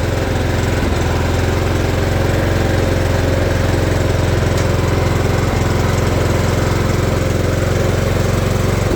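Ranch King riding mower's engine running steadily.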